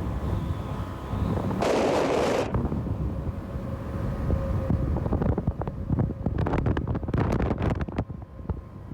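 Outdoor ambience with wind rumbling on the microphone, a short loud rush of noise about two seconds in, and a run of irregular clicks and knocks in the second half.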